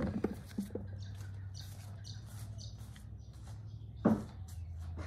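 Small birds chirping, many short high calls one after another, over a steady low hum, with one louder, sharper sound about four seconds in.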